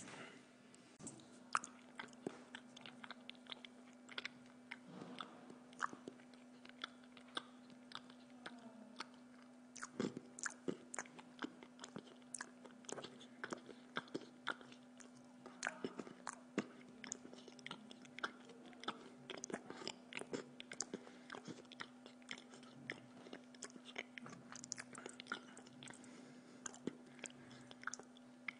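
A person chewing food close to the microphone, with many small sharp clicks and smacks of the mouth throughout, over a steady low hum.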